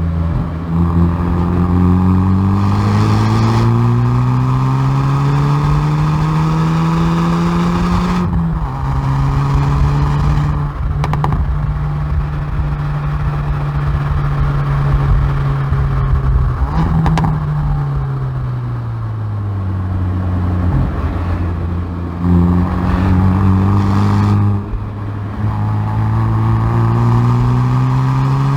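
Hyundai i30N Performance's turbocharged 2.0-litre four-cylinder engine and exhaust, picked up at the rear bumper, driven hard on track. The engine note climbs, drops sharply at an upshift about 8 s in and holds steady. It then falls as the car slows, climbs again and drops at another upshift, and is rising again near the end.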